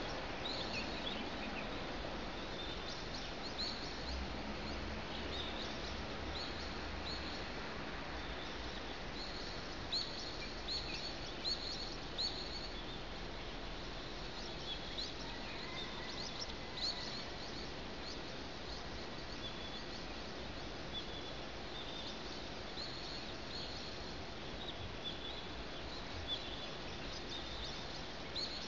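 Small birds chirping in short, sharp calls on and off, over a steady hum of city ambience.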